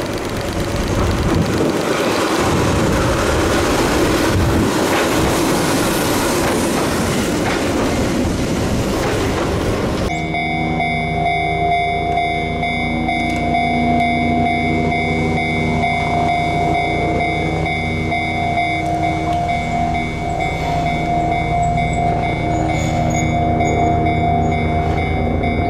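A Keihan 600 series two-car train running along street track, its wheels and motors making a steady rumbling noise. About ten seconds in, a level-crossing warning bell rings with a steady repeated tone, warning of an approaching Keihan 700 series train.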